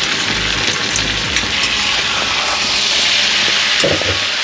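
Soaked flattened rice (poha) sizzling in hot oil in a pan as it is stirred and mixed: a steady, loud frying hiss.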